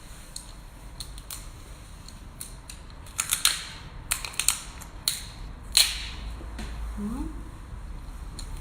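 Crunching of lobster shell being bitten and chewed: a run of sharp cracks and snaps from about three to six seconds in, the loudest near the end of the run.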